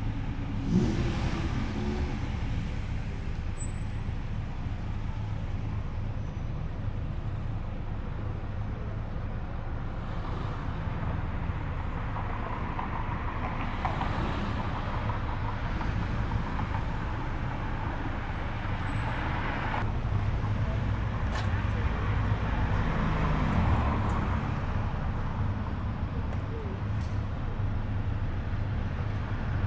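Car engines running as cars roll slowly past, a steady low rumble throughout. A short rev about a second in, and an engine note falling away near the three-quarter mark.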